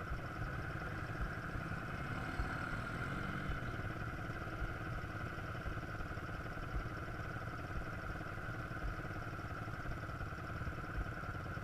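Quad bike engine running steadily, with a continuous hum and short low thumps scattered through it.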